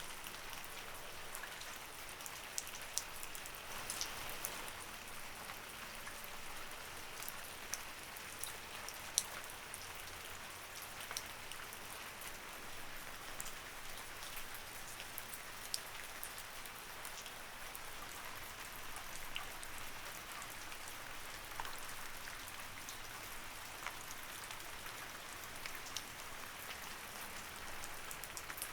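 Light rain falling steadily: an even hiss with scattered sharp drops pattering on a surface.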